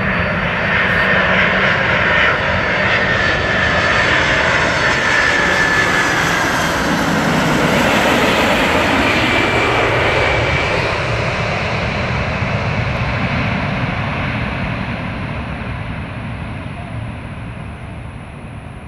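Air Force One's jet engines on landing approach: a loud rushing roar with a whine that slides down in pitch. It is loudest about halfway through, then fades steadily as the jet passes by.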